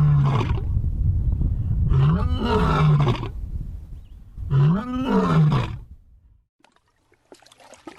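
Lion roaring: three long roars, each rising and then falling in pitch, about two seconds apart, the last ending about six seconds in.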